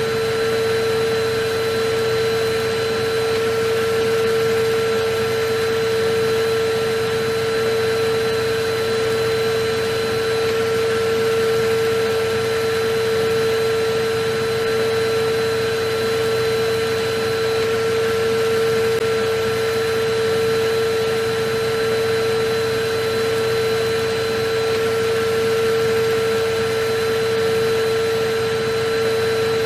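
Vacuum cleaner running steadily: an unbroken motor whine over even rushing air noise, with no change in pitch or level.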